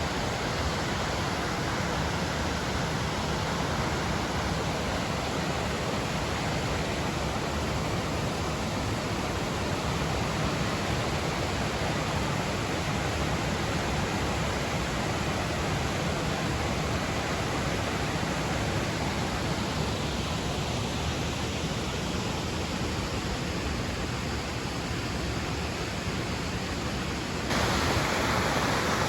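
Waterfall pouring, a steady, even rush of falling water that gets abruptly louder near the end.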